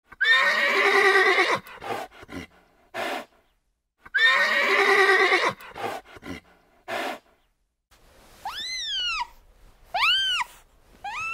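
A horse whinnying, a long wavering call followed by a few short snorts, heard twice. Near the end a cat meows twice, each meow rising and falling.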